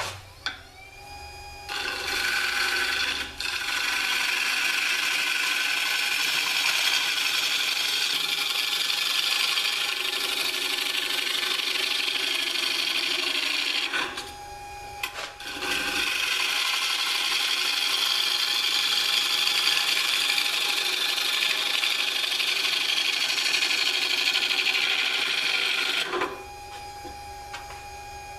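Freshly sharpened bowl gouge cutting a dry hard maple bowl blank on a Jet 1221 variable-speed mini lathe, in two long cuts of about twelve and ten seconds. Between the cuts, and at the start and end, only the lathe's steady motor whine is heard.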